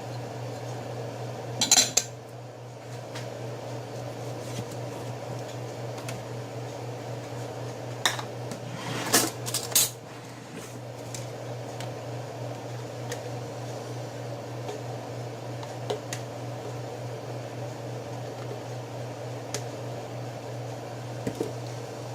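Dishes and utensils clinking in kitchen food prep: a sharp clatter about two seconds in, and a few clinks around eight to ten seconds. A steady low hum runs underneath.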